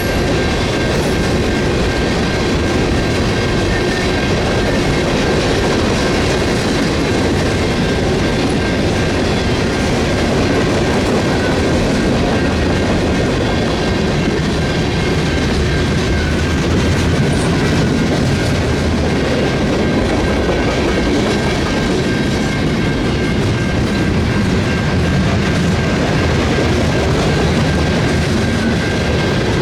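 A train's cars rolling past on the track: a loud, steady clatter and rumble of steel wheels on rail, with a faint high steady tone riding over it.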